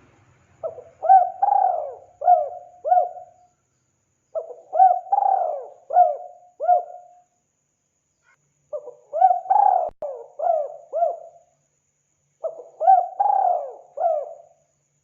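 Spotted dove (tekukur) cooing: four phrases of about five coos each, with a pause of a second or two between phrases.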